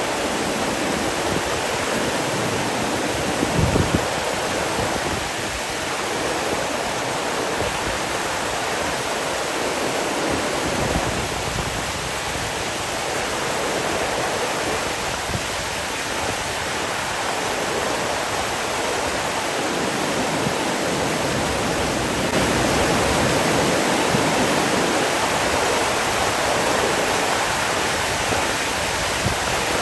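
Steady rushing of flowing water, a stream or waterfall, with a brief low surge about three and a half seconds in.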